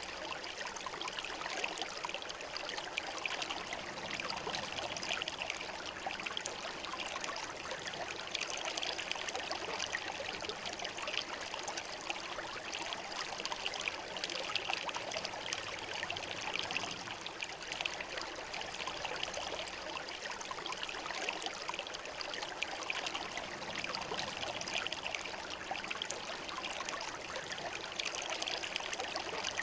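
Shallow river flowing and burbling over smooth stones: a steady rushing with fine splashing, no change in level.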